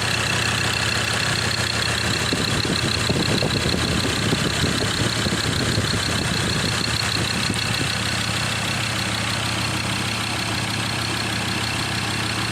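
Ford Ranger engine idling steadily.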